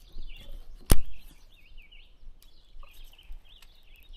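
Birds chirping faintly in the background, with one sharp click about a second in, the loudest sound here.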